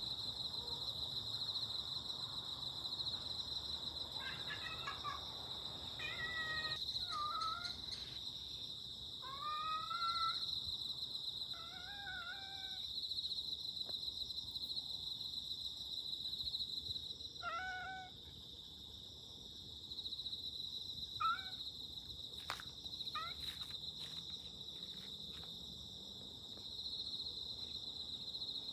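A cat meowing about eight times, short calls that bend up and down in pitch, over a steady high chirring of insects, with a few sharp clicks near the end.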